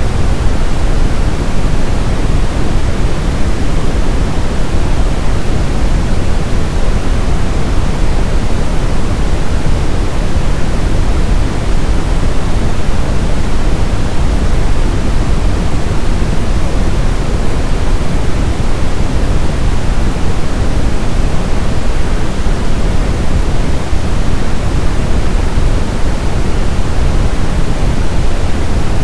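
Brown noise: a steady, loud hiss-like rumble, strongest in the deep low end and thinning toward the treble, unchanging throughout.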